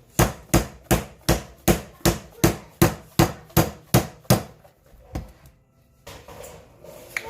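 A dozen sharp, evenly spaced knocks, about three a second, then one more a second later.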